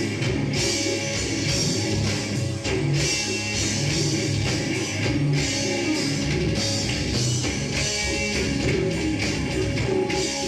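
Live heavy metal band playing: distorted electric guitars over a drum kit with steady cymbal strikes.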